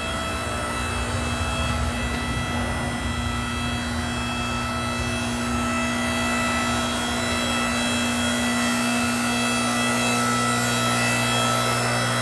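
A 7-ton log splitter running: its motor and hydraulic pump give a steady drone that grows slightly louder, and its low hum changes about nine seconds in.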